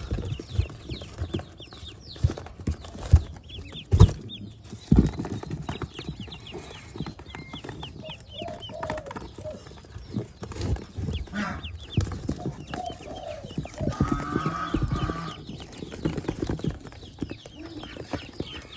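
Newly hatched Pekin duckling peeping: a steady run of short, high, falling peeps. Several dull knocks are mixed in, the loudest about four and five seconds in.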